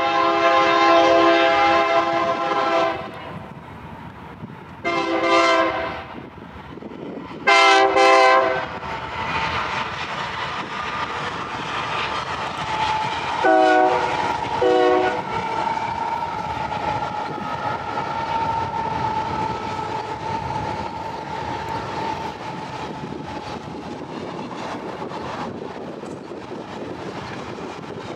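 Freight train locomotive air horn sounding a long blast, then two roughly one-second blasts, then two short toots about five seconds later. After that comes the steady rumble and clatter of the train's cars rolling past.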